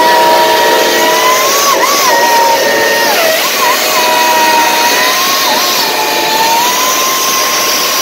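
A steam locomotive whistle held long and quilled, its pitch dipping and sliding several times, over a loud steady rushing noise.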